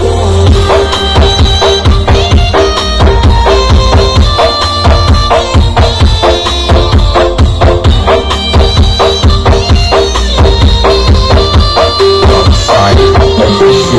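Very loud drum-driven music with heavy bass and a fast, even beat, played through a massive truck-mounted parade sound system (Indonesian 'sound horeg').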